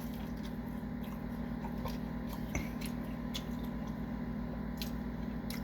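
A person chewing food, with small wet clicks and squishes scattered through, over a steady low hum.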